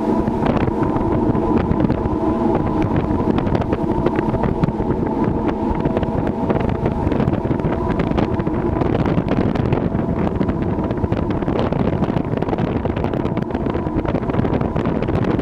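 A ship's engine drones steadily at one even pitch, with wind buffeting the microphone.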